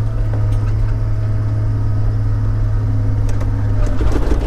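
Log loader's diesel engine running at a steady low drone, with a few light knocks near the end.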